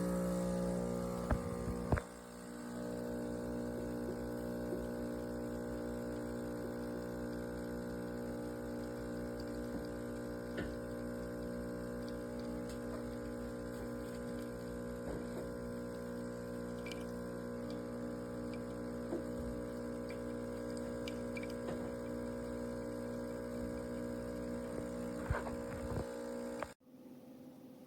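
De'Longhi Magnifica Start espresso machine's pump running steadily with a hum as water flows, with a few light clicks. It dips briefly about two seconds in and stops abruptly near the end.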